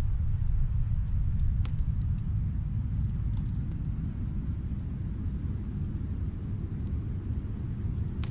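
Wood fire crackling in a fireplace, with scattered sharp pops and snaps over a steady deep rumble.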